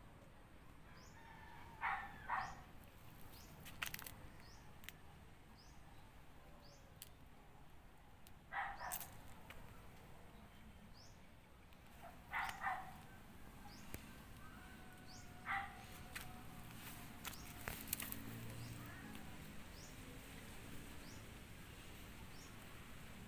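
Short bird calls every few seconds, some in quick pairs, over a faint high chirp that repeats about once a second. A few sharp clicks are mixed in.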